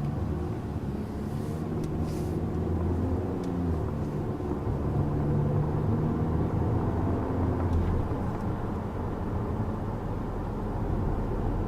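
2014 Chevrolet Impala's 2.5-liter four-cylinder engine running with road noise, heard muffled inside the cabin while driving. The engine note shifts up and down in pitch through the middle.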